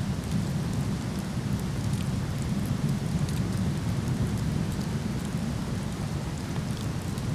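Steady, deep rush of a nearby waterfall, with scattered small crackles from a wood fire burning in a fire pit.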